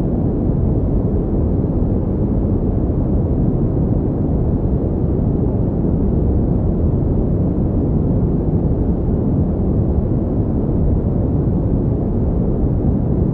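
Pink noise: a steady, unchanging rush of noise, strongest in the low end.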